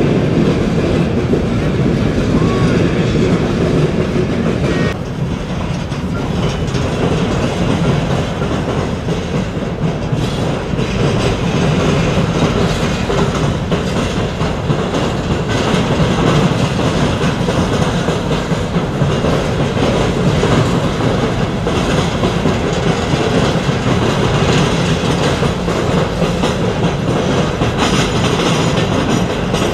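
A string of steel-wheeled iron ore hopper cars rolling past at steady speed: a continuous noise of wheels on rail with a clickety-clack clatter from the trucks.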